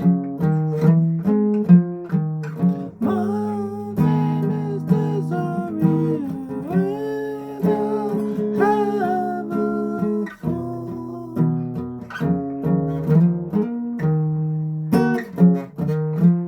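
Acoustic guitar strumming chords, with a strum about every half second. Wordless singing or humming bends over the chords for a few seconds in the middle.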